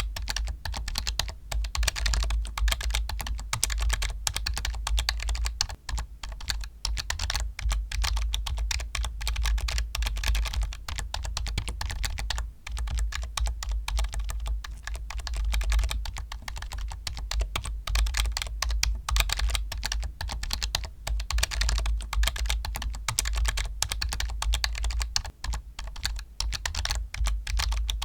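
Fast, continuous typing on a computer keyboard: dense rapid key clicks with a few brief pauses, over a steady low hum.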